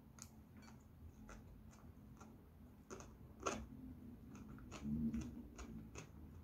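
Faint close-up chewing of a mouthful of kimbap (seaweed-wrapped rice roll), heard as scattered soft mouth clicks with one sharper click midway. There is a brief low hum around five seconds in.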